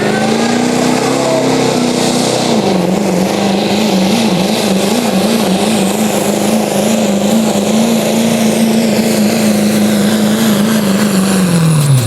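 Turbocharged diesel pickup engine held at high revs under heavy load pulling a sled, its pitch climbing at first, then holding steady with a slight waver. Near the end the revs fall off sharply as the throttle is let off.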